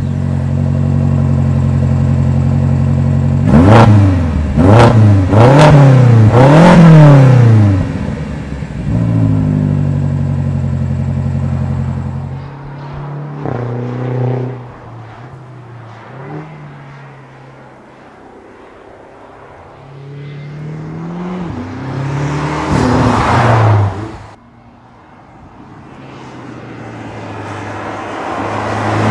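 BMW X5 M's twin-turbo V8 idling, then revved three times in quick succession about four seconds in, with another rev soon after that falls back toward idle. Later the engine note builds in a long rise that cuts off abruptly, and rises again near the end.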